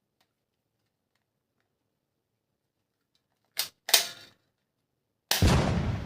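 Two sharp clicks in quick succession, then a loud gunshot sound with a long fading tail, of the kind made by a toy gun.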